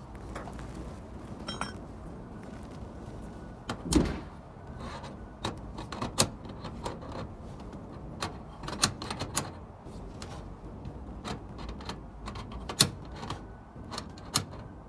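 Irregular clicks and knocks over a steady low background hum, with one louder thump about four seconds in.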